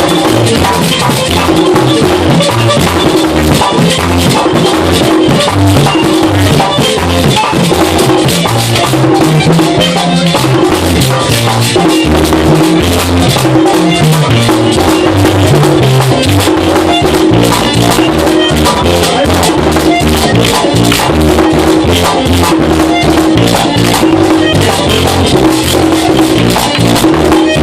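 Merengue típico played by a band: a güira scraping a steady rattling rhythm over tambora drum and bass guitar.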